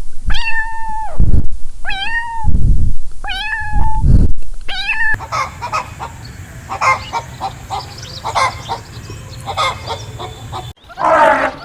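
Four high, drawn-out animal calls, each about half a second, with low thumps between them. About five seconds in it cuts to a different scene of many short animal calls and clicks. Near the end there is a brief, louder rough call.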